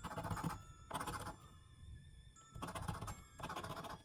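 A scratch-off lottery ticket being scratched in three short rasping bursts with brief pauses between, the latex coating being scraped off the card.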